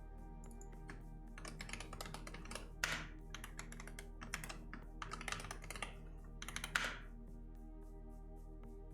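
Typing on a computer keyboard: quick runs of keystrokes for about five seconds, with two heavier single key strikes, over soft background music.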